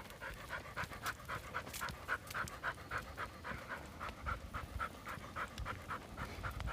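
Dog panting steadily and fast, about four breaths a second, heard close to the phone microphone.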